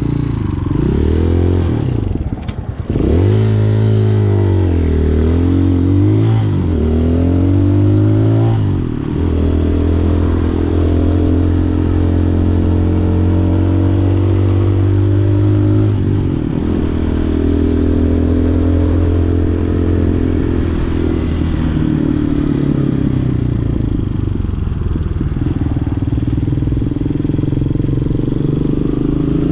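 Motorcycle engine pulling away and accelerating through the gears, its pitch climbing and dropping at each shift in the first nine seconds or so, then holding steady at cruising speed. About sixteen seconds in the revs drop and it runs on at a lower, steadier pitch.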